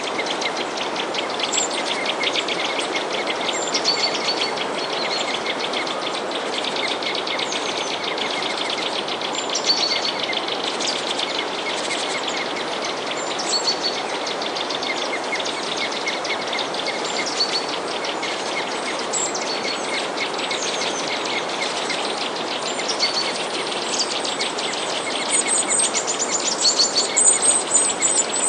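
Many small songbirds chirping, with short high chirps scattered throughout and a rapid high trill near the end, over a steady even hiss.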